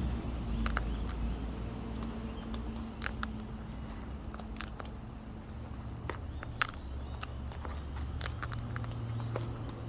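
Parrots' beaks cracking and picking through seed in a bucket: irregular small clicks and crunches, over a low steady hum.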